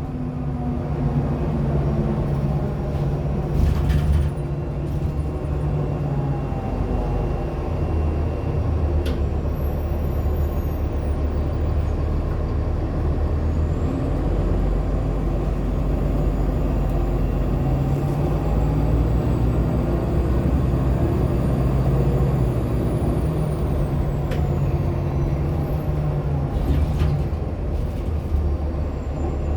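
Nova Bus LFSA articulated hybrid transit bus heard from inside while driving: a steady low drivetrain hum, with a faint high whine that rises and then falls in pitch through the middle. A few short knocks and rattles come from the bus.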